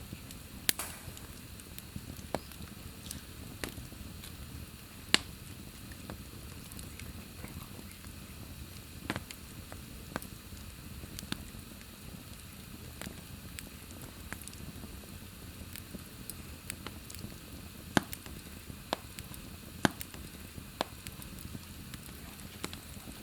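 Wood fire burning in a fireplace: a steady low hiss with irregular sharp crackles and pops, a few of them louder than the rest.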